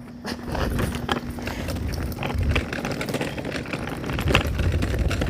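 Small wheels rolling over rough pavement, with an uneven rumble and irregular clicks and rattles that grow louder toward the end.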